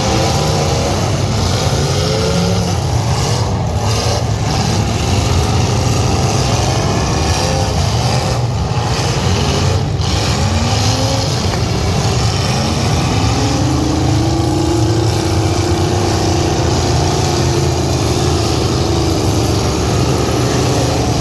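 Several demolition derby cars' engines running and revving over a constant low rumble, their pitch rising and falling as they accelerate and slow, with one long climbing rev about twelve seconds in.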